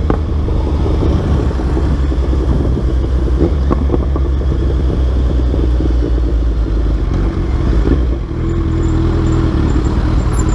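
Kawasaki Z1000's inline-four engine running through a full aftermarket exhaust system, a steady deep drone. It dips briefly about eight seconds in, then carries on with a slightly different note.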